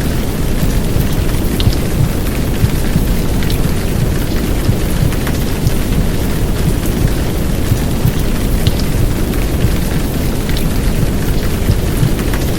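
Heavy downpour rain, a dense steady hiss with scattered drop ticks, laid over a deep steady rumble from a womb-sound recording.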